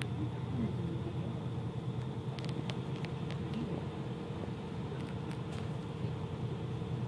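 ICE high-speed train running, heard from inside the passenger car: a steady low rumble with a constant hum, and a few light clicks a couple of seconds in.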